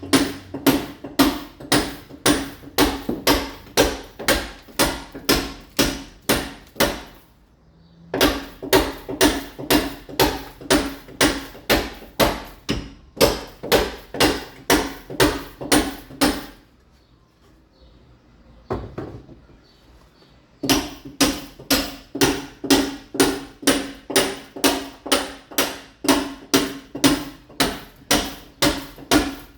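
Mason's club hammer chipping a masonry wall, roughening it to take ceramic tile: steady blows about two a second, each with a short metallic ring. The hammering stops briefly a quarter of the way in, then again for about four seconds in the middle, before resuming.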